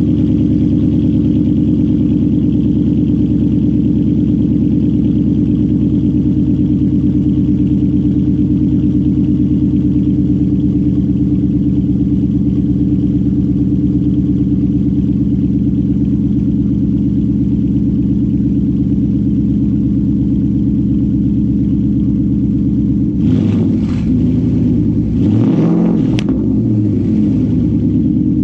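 2020 Mustang GT's 5.0 V8 idling steadily after a cold start, through a Steeda H-pipe and MBRP axleback muffler-delete exhaust. About 23 seconds in, its pitch briefly rises and falls, with a sharp click near the end.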